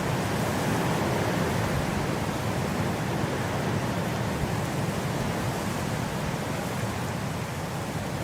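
Blizzard wind blowing as a steady, even rushing noise, swelling slightly about a second in.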